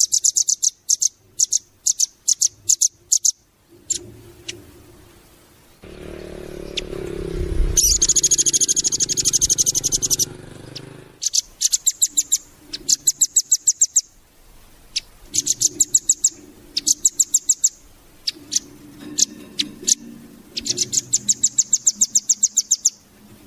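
Velvet-fronted nuthatch (rambatan) singing: bursts of rapid, high repeated notes a second or two long, with one longer dense trill in the middle. A low rumble runs under the song from about six to eleven seconds in.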